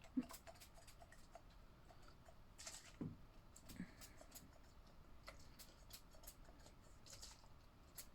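Faint, scattered light clicks and taps of small plastic slot-car parts being handled, with a soft knock about three seconds in and quicker clicking near the end.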